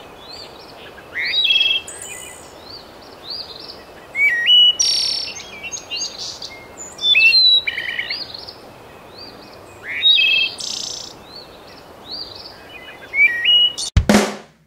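Birdsong: phrases of rising chirps repeating about every three seconds over a steady background hiss, cut off abruptly near the end.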